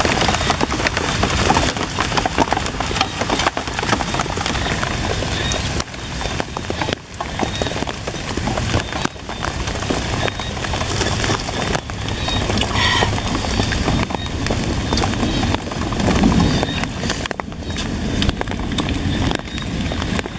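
Close-up eating sounds of someone eating with their hands: dense wet chewing, clicking and lip smacking.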